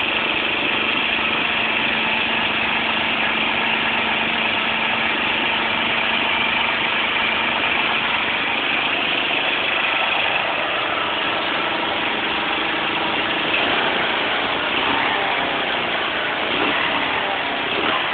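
Honda CB125 motorcycle engine idling steadily, already running from the start, with a few small rises in level in the later part.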